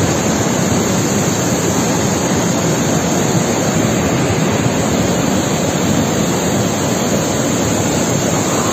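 Flash-flooded river rushing past in a steady, loud, unbroken wash of water noise.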